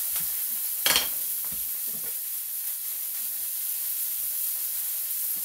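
Vegetables sizzling steadily in olive oil in a pan on the stove. About a second in there is one sharp click, followed by a few soft knife knocks on a cutting board as a red bell pepper is sliced.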